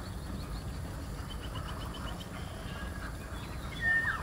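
Birds calling faintly over a low steady background noise: a quick run of short, high chirps about a second and a half in, and a louder call near the end.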